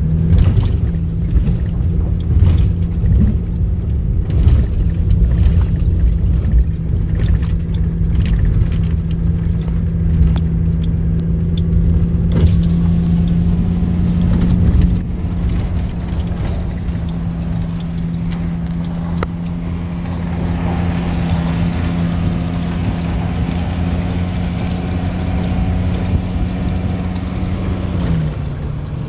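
Pickup truck driving, its engine running steadily under a low road rumble; the sound drops a little in level and changes about halfway through.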